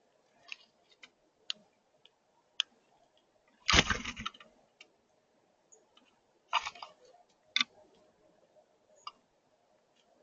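Sharp ticks and taps of birds pecking and cracking seed at a feeder, irregular and close. A louder thump with a rustle comes about four seconds in, and a smaller one a little before seven seconds.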